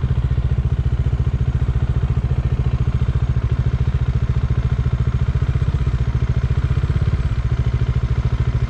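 Motorcycle engine idling with a steady, rapid, even exhaust pulse, heard from the saddle.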